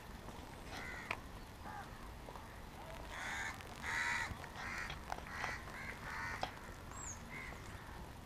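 A bird calling in a run of short, harsh calls, densest and loudest about three to four seconds in, the call likened to a whimpering puppy. A single short high whistle comes near the end.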